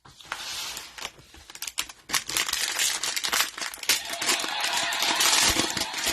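Cellophane wrapper of a trading-card cello pack crinkling and crackling as it is torn open, getting louder about two seconds in.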